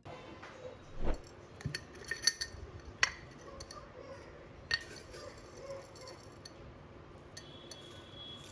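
Kitchenware being handled: a spoon and glass or dishes clinking and knocking a few times, with sharp clinks spread over the first five seconds.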